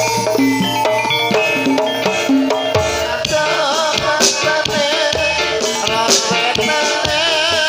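Javanese gamelan-style music accompanying a kuda kepang (ebeg) dance: drums and rattling percussion under struck pitched instruments, with a wavering high melody line joining about three seconds in.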